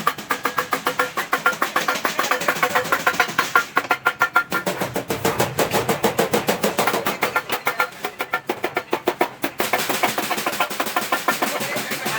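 Hammer striking stainless steel sheet in quick, even blows, several a second, each with a short metallic ring.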